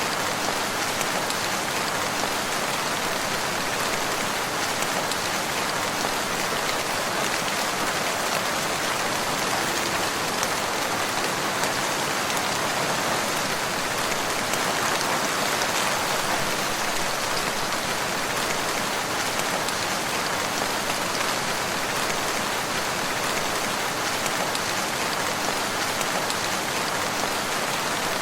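Steady rain falling on a surface, an even hiss of many drops with no letup.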